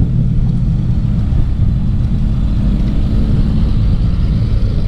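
Steady low rumble of a vehicle running at slow speed, heard from on board.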